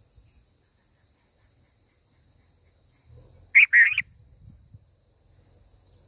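Black bulbul call at the nest: one short, loud, two-part call about three and a half seconds in, over a faint steady high hiss.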